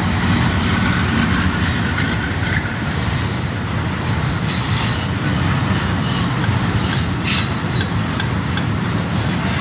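Freight train of oil tank wagons passing close by: a steady, loud rumble of steel wheels on rail, with brief high metallic squeals from the wheels now and then.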